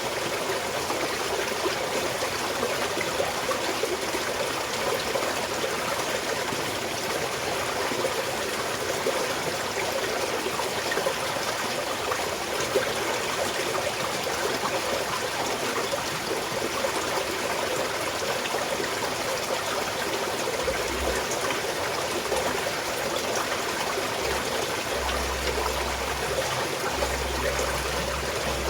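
Small mountain stream flowing and trickling steadily over rocks. A faint low rumble comes and goes near the end.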